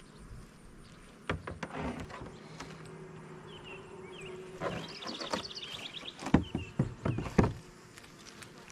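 Knocks and clatter of a wooden beehive being handled, over a faint steady hum of honeybees, with a quick run of clicks about five seconds in and several louder knocks soon after.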